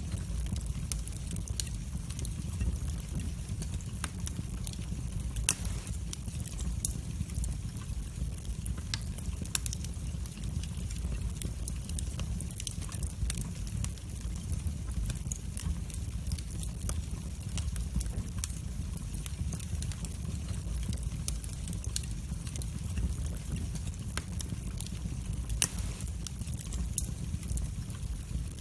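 Wood fire burning in a fireplace: a steady low rumble of the flames with scattered crackles and sharp pops, two of them louder, one about five seconds in and one near the end.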